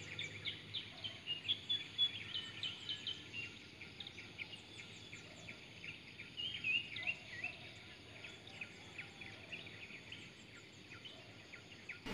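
Birds chirping and trilling in quick short calls, thinning out toward the end, over faint steady background noise.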